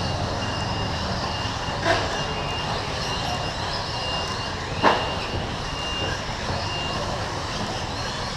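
Electric 17.5 short-course RC trucks running on the track, a steady mix of motor and tyre noise with two sharp knocks about two and five seconds in. A faint high tone beeps in short pulses through the first part.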